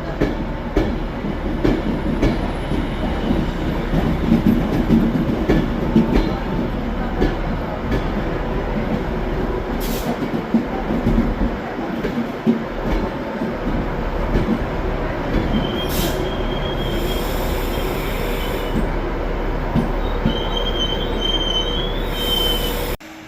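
Class 390 Pendolino electric train, 11 coaches, running along the platform with a steady rumble of wheels on rail and frequent light knocks over the rail joints. A thin high wheel squeal comes in briefly in the second half. The sound cuts off abruptly near the end.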